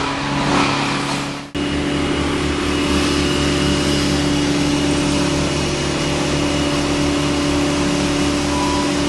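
An engine running steadily at an even speed, with a faint high whine above its hum. About a second and a half in it cuts sharply to a louder, very even engine sound.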